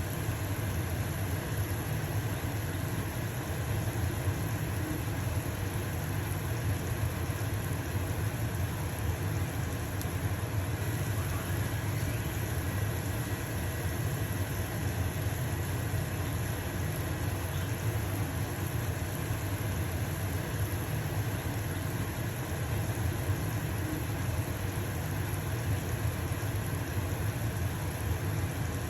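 Stove-top exhaust fan running with a steady low hum, together with the hiss of a pancake sizzling in a frying pan.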